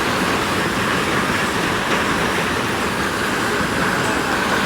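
A storm's steady rushing noise of wind-driven heavy rain.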